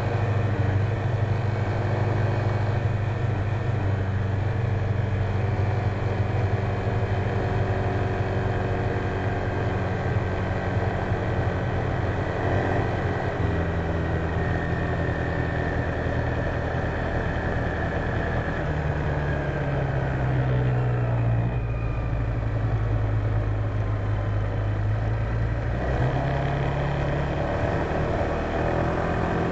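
Honda PCX150 scooter's single-cylinder four-stroke engine running at riding speed, heard from a dashcam on the scooter, with a steady rush of wind and road noise. The engine note shifts in steps several times as the speed changes.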